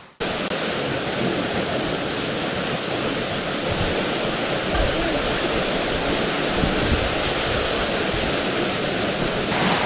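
Waterfall pouring into a rock swimming hole: a steady rush of falling water.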